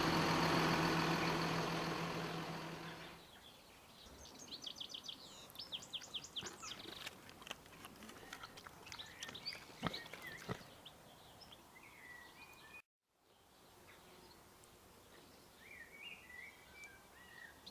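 An engine, likely a tractor's, runs steadily and fades away over the first three seconds. Birds then chirp and sing in quick runs of notes. The sound drops out completely for a moment about 13 seconds in, then the birdsong resumes.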